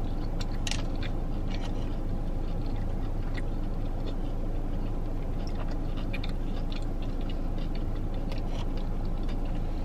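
Close-mouthed chewing of a bite of Korean fried cheese, a crispy-coated cheese stick, with faint crunches and clicks, most in the first second, over a steady low hum.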